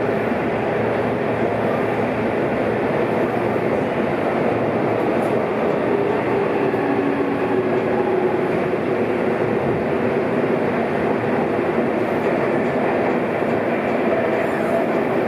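Seibu 6000 series electric train running at speed through a subway tunnel: a steady, continuous rumble of wheels and running gear with a faint motor hum.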